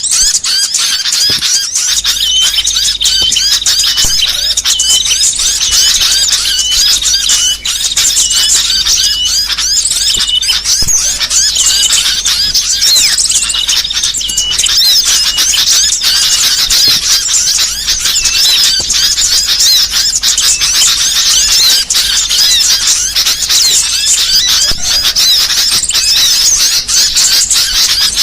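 Dense, continuous chorus of rapid high-pitched chirps, trills and twitters from a mix of small songbirds, played as a bird-lure and tutor recording. A faint steady low hum runs underneath from about two seconds in.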